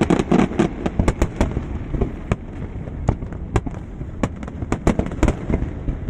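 Aerial fireworks going off: a quick run of sharp bangs and crackles, thickest in the first second or so, then single reports every half second or so.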